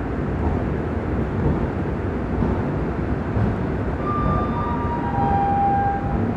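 Rajdhani Express LHB coaches rolling slowly past along the platform, a steady low rumble of wheels and bogies. About four seconds in, a few high steady squeals, each a little lower than the last, sound over the rumble for two seconds.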